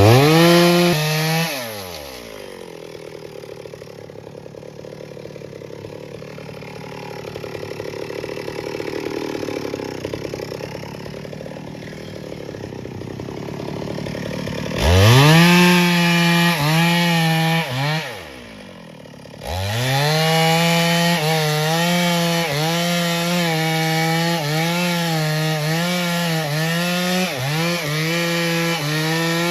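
Chainsaw running at full throttle, then dropping to idle about two seconds in. It revs up again around fifteen seconds, drops back briefly near eighteen seconds, and from about twenty seconds runs wide open, its pitch dipping again and again as the chain bites into the wood.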